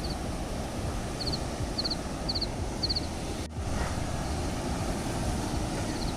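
Steady wind rumbling on the microphone in the open air. Over it, a small bird gives short quick triple chirps about every half second in the first half. The sound drops out for a moment about halfway through.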